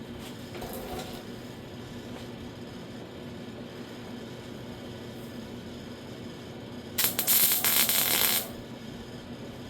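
A welding arc crackling briefly for about a second and a half, about seven seconds in: a single small tack weld on a steel repair panel of a car door skin, over a steady low hum.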